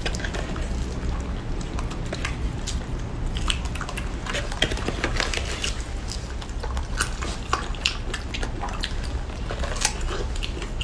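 Fresh strawberries being bitten and chewed close up, a run of small wet clicks and smacks over a low steady hum.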